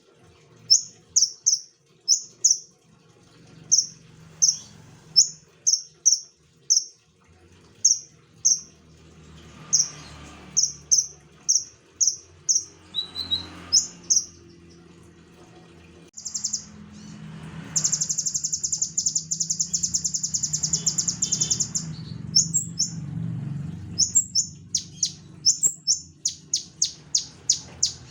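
Common iora (konin) singing in full voice: a long series of short, high, clear notes, about two a second, broken by a fast rattling trill in the middle and running into quicker notes near the end.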